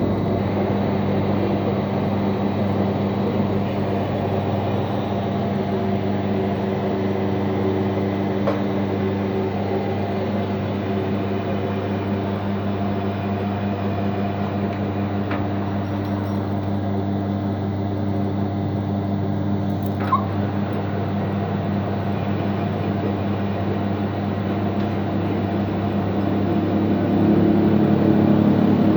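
A machine running with a steady, even hum, with a few light ticks along the way. The hum grows louder near the end.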